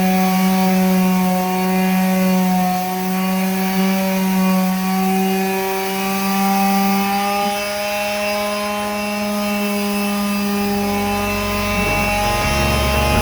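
Power tool running steadily with a constant, slightly wavering hum; a low rumble joins about ten seconds in.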